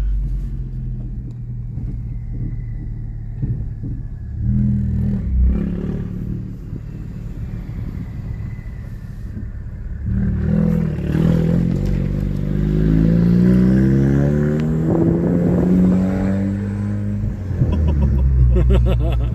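Straight-piped Ford Focus RS Mk3's 2.3-litre turbocharged four-cylinder exhaust while driving, muffler removed: an even drone for about ten seconds, then the engine pulls hard with its note climbing steadily for several seconds before settling.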